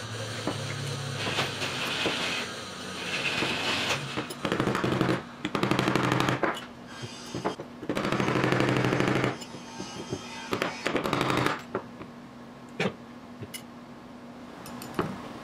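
Bursts of rapid metallic tapping and clattering of hand tools on a distributor, loudest through the middle, as a retaining pin on the vacuum advance unit is worked at to get it out.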